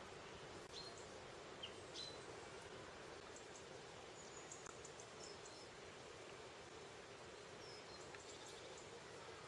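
Faint outdoor ambience: a steady hiss with scattered short, high chirps from small birds.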